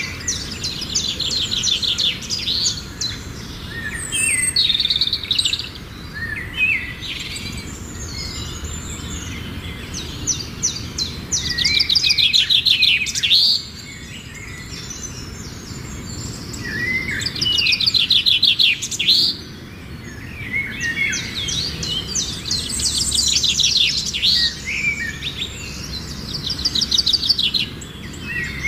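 Wild birds singing: repeated bouts of fast, high chirping trills, each a second or two long, recurring every few seconds over a quiet outdoor background.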